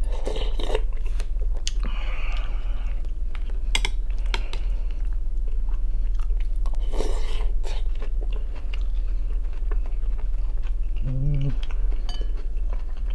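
Close-miked eating sounds: chewing and slurping of chicken kharcho soup from a spoon, with bites of rye bread, in irregular bursts. A short voiced 'mm' comes near the end, and a steady low hum runs underneath.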